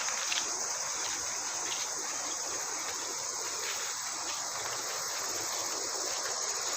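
Steady high-pitched insect chorus from the forest.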